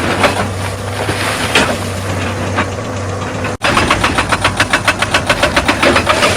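Excavator diesel engine running steadily with scattered knocks of rock and metal. About halfway in, a fast, even hammering starts, roughly eight blows a second, typical of a hydraulic breaker pounding rock, and eases off near the end.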